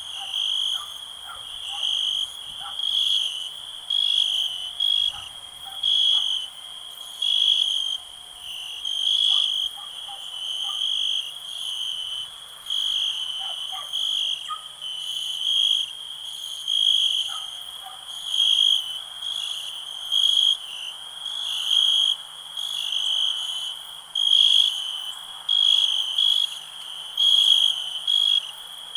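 Crickets chirping: a steady high-pitched trill that swells louder about once a second, with faint scattered calls underneath.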